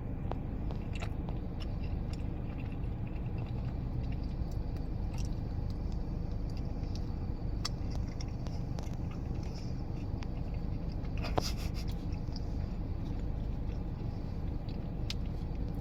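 Close-up chewing and biting of a Crumbl cookie, with scattered small crackles and mouth clicks, a cluster of them about eleven seconds in, over a steady low rumble.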